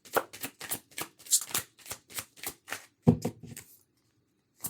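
Tarot cards being shuffled by hand: a steady run of crisp card slaps, about four a second, with one louder knock about three seconds in, then a brief stop before the shuffling picks up again.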